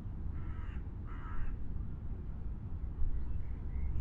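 Two short, harsh bird calls in the first second and a half, like a crow cawing, over a steady low rumble, with a few faint chirps near the end.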